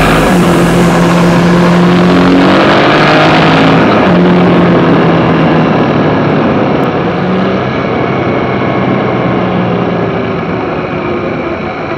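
Yamaha Tracer motorcycle engine running at road speed, holding a steady note that shifts a few times, with heavy wind rush on the action camera's microphone that eases after about five seconds.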